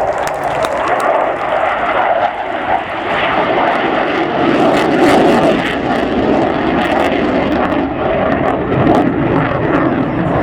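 Military display aircraft engines running loud and steady in an air show flypast.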